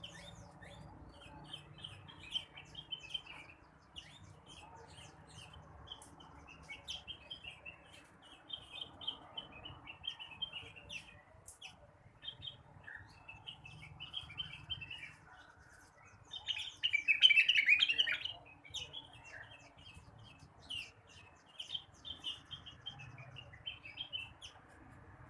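A rengganis (cucak wilis) singing: a long run of quick chirps and twitters, with a louder, denser burst of song about two-thirds of the way through.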